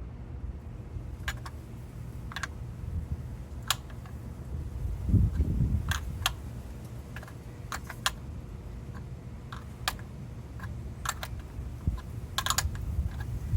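14 mm open-ended wrench clicking and tapping on the metal of the PCV valve as it is worked loose, in scattered sharp clicks at irregular intervals, with a dull bump about five seconds in, over a low steady rumble.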